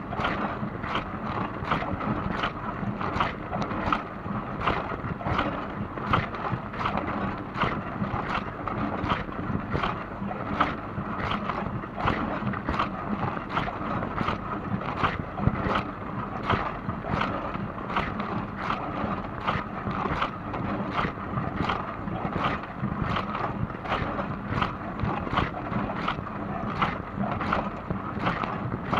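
Dishwasher running a wash cycle: a steady rush of water spraying and splashing inside the tub, with a regular swish about twice a second.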